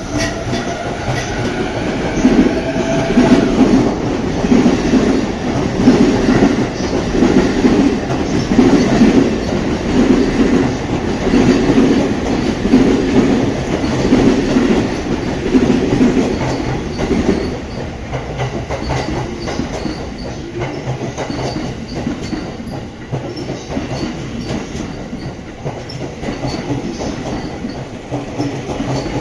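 Electric commuter train pulling out and gathering speed, its traction motors whining upward at the start. A loud, rhythmic clatter of wheels over rail joints follows as the cars pass, then eases off to a quieter rumble about halfway through.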